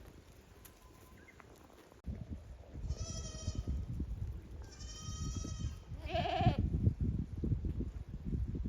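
Goats bleating: three calls about two seconds apart, the third louder and higher than the others. A low rumbling noise runs under them.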